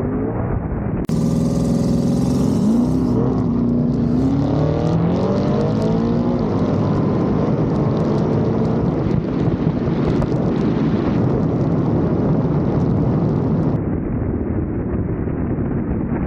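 A vehicle engine accelerating hard: its pitch climbs twice in the first several seconds, then it runs loud and steady at speed. There is a sudden cut about a second in.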